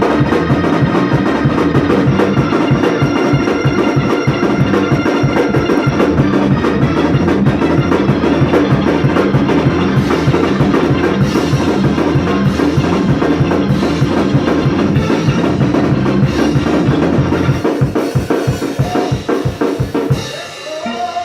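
Organ and drum kit playing up-tempo music with a steady beat, thinning out and dropping away near the end.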